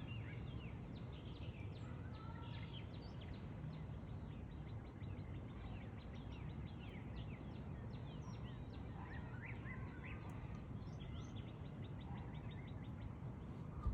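Small birds chirping, many quick short calls overlapping, over a steady low rumble of outdoor background noise.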